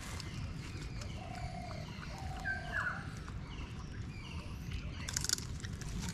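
Birds calling in woodland: short repeated chirps and a few longer, level whistled notes, two of them ending in a quick drop. About five seconds in, a brief crinkling rustle of a plastic bag.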